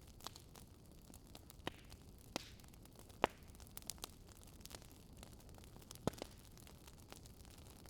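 Wood fire crackling: a low steady hiss with irregular sharp pops and snaps, the loudest a little over three seconds in and another about six seconds in.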